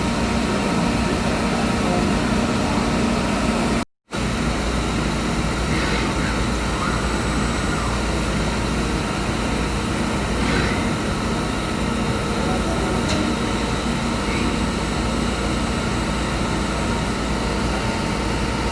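Walter Helitronic Minipower CNC tool grinder running under power: a steady mechanical hum and hiss, cut off for a fraction of a second about four seconds in before it resumes.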